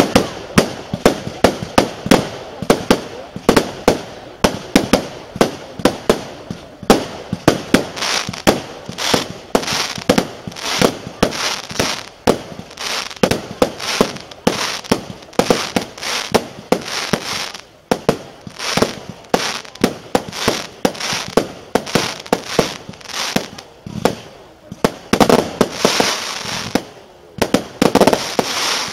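Aerial fireworks bursting in a rapid barrage, about two sharp bangs a second, with crackling between the reports that grows denser near the end.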